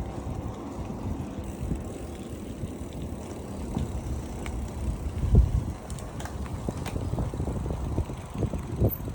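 Low, uneven rumble of a bicycle ride, with wind buffeting the microphone and the bike rolling along the street. There is a louder thump about five and a half seconds in.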